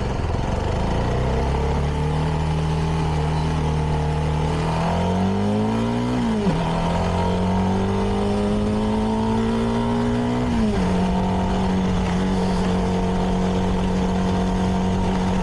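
CFMoto 300NK's single-cylinder engine through its stock exhaust, pulling up through the gears: the revs climb, drop at an upshift about six seconds in, climb more slowly and drop at a second upshift near eleven seconds, then hold steady at a cruise. Steady wind rush underneath.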